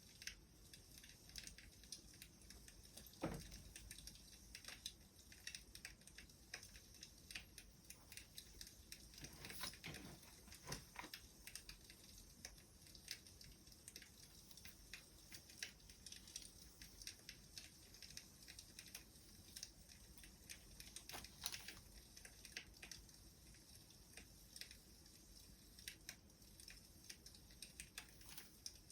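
Wood fire crackling softly: a steady scatter of small crackles, with a few louder pops about three, ten and twenty-one seconds in.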